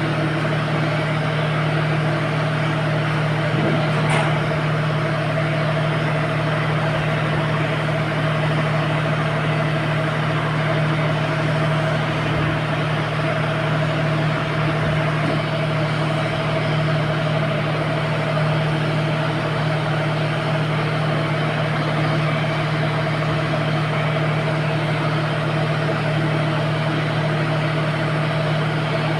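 An engine running steadily at a constant speed, a continuous even hum that does not change.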